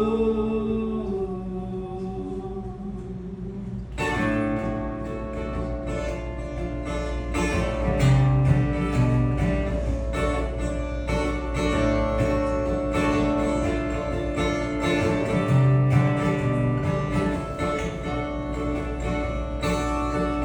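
A held sung note fading out over the first few seconds, then acoustic guitar playing an instrumental break, strummed and picked.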